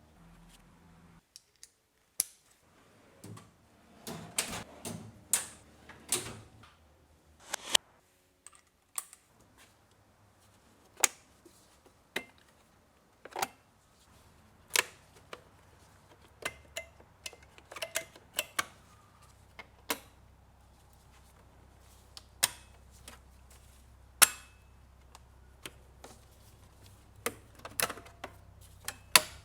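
Irregular sharp clicks and knocks of hard parts and tools being handled, a few seconds apart and in small clusters, some with a short ring.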